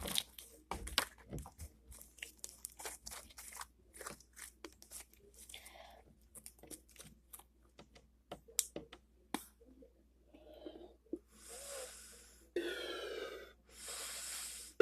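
Slime being squished and stretched by hand: many small wet clicks, crackles and pops. Near the end come two longer airy squelches a second or two each.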